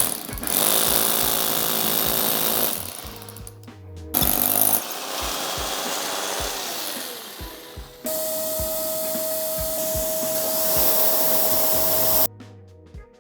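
A power tool runs in three bursts of a few seconds each, the last with a steady whine, over background music with a beat.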